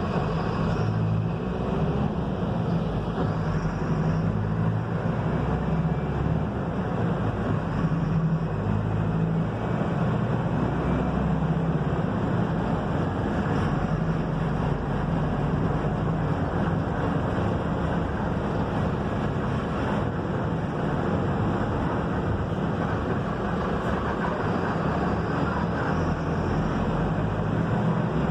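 Mercedes-Benz OF-1721 bus driving along, its front-mounted diesel engine humming steadily under constant road noise.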